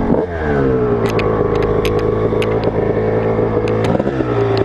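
Motocross bike engine under throttle: its pitch drops just after the start, then holds steady at a constant note, with scattered sharp clicks and rattles over it.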